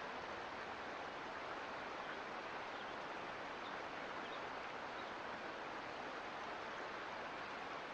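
A mountain creek flowing: a steady, even rush of water.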